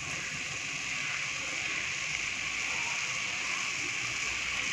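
Vegetables and sauce sizzling steadily in a hot kadai as cooked noodles go in: an even frying hiss.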